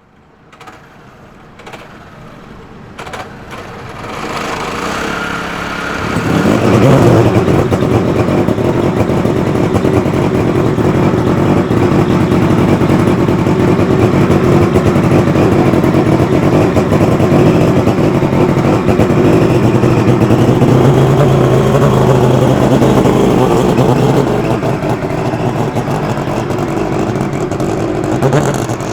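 Crighton CR7000W motorcycle's twin-rotor, four-stroke rotary engine running, building up over the first six seconds or so and then holding a loud, steady drone, easing off a little near the end.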